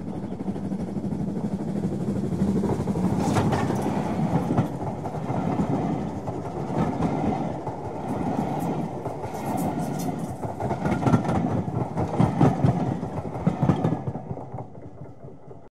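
Railway coaches rolling past on the track, wheels clicking over the rail joints, fading away near the end.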